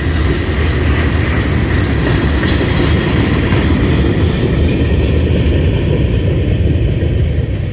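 Freight train cars rolling past, a loud steady rumble of steel wheels on the rails.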